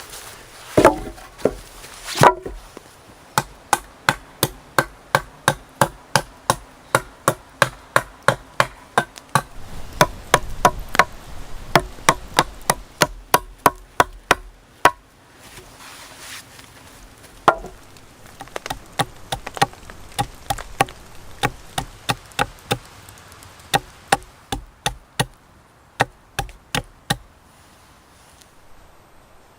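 Rapid chopping strikes into wood, about two or three a second, with two heavier blows at the start and a pause of a couple of seconds in the middle before the strikes resume and stop near the end.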